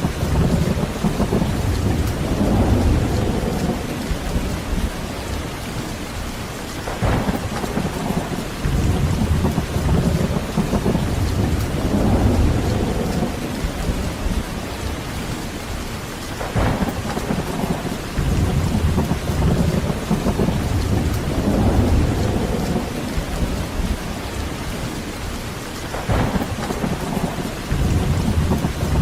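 Heavy rain falling steadily with rolling thunder, the low rumbles swelling and fading every few seconds and three sharper claps about nine to ten seconds apart.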